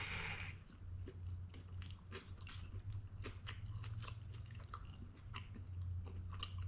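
A person chewing a mouthful of chicken taco close to the microphone, with many small irregular crunches and clicks. A steady low hum sits underneath.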